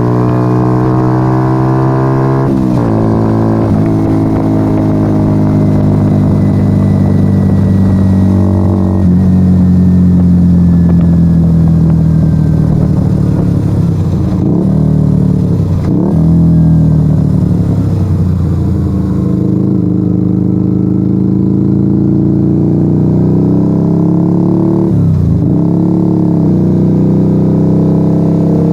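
Yamaha XV125 Virago's 125 cc V-twin running under way through a straight-piped Turbo Kit exhaust with the dB killers removed. The engine note is loud and steady, with a few changes in engine speed and brief dips in revs, one about a second after the middle and one near the end.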